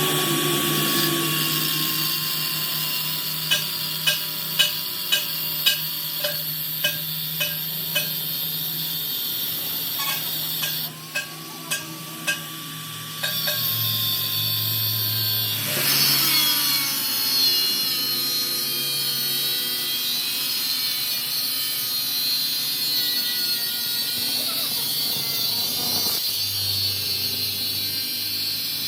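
Power tool or workshop machine running steadily on metal, with a held whine. A row of light, evenly spaced clicks comes a few seconds in, and the sound drops briefly near the middle before running on.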